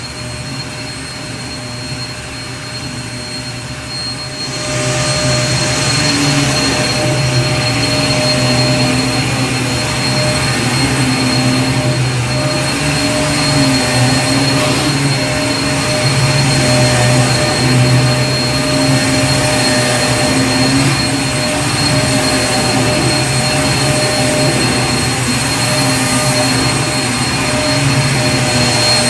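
Vacuum cleaner running continuously, a steady rushing noise with a low hum and a high whine; it grows louder about four and a half seconds in and holds there.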